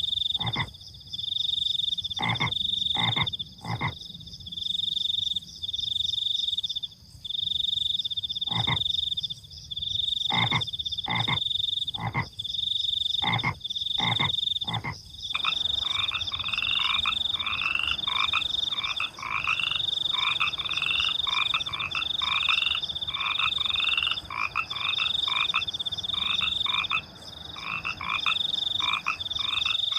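Night chorus of frogs and crickets. A high, pulsing cricket trill comes in bursts of about a second with short gaps. Through the first half, frogs give short, sharp single calls; from about halfway, a frog croaks over and over at about two calls a second.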